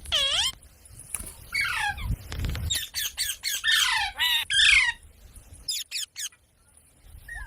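Parrot squawking: a rapid series of short calls, each falling in pitch, with a brief lull near the end.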